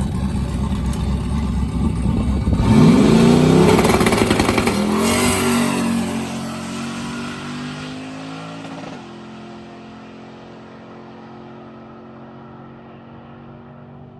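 Boosted second-generation Camaro drag car launching hard on a quarter-mile pass: a loud low engine rumble at the line, then about three seconds in the engine surges with rising pitch, and the sound fades steadily as the car pulls away down the track.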